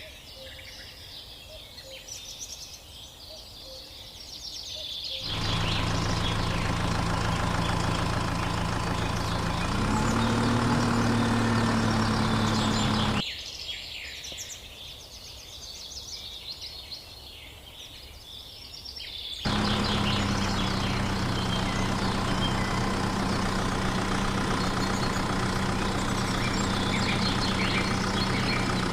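A small motor runs steadily with a low hum, starting about five seconds in, rising slightly in pitch near ten seconds, stopping about halfway, and starting again near twenty seconds. Birds chirp in the gaps between.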